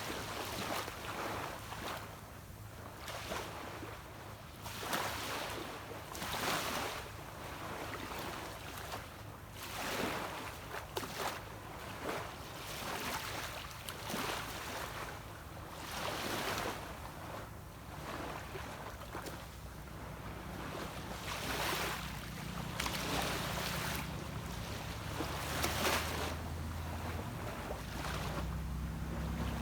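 Small sea waves washing onto a beach in a steady series of surges, with the low drone of a distant boat engine that grows louder in the last third.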